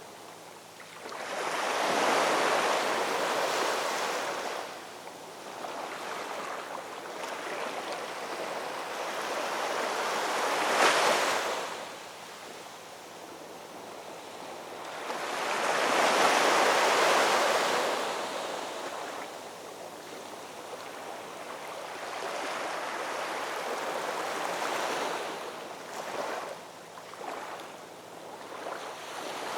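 Ocean waves breaking and washing up the shore, a rushing surf that swells and fades in a slow cycle. The larger breakers come about every five to six seconds, one with a sharp crash near the middle.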